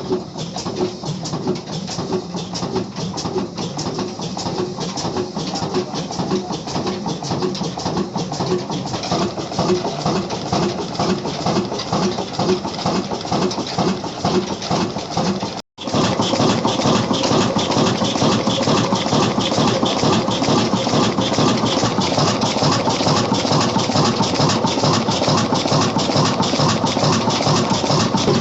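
Old black single-cylinder stationary diesel engine running with an even beat of about two pulses a second. After a brief break about halfway through, the sound is louder and busier.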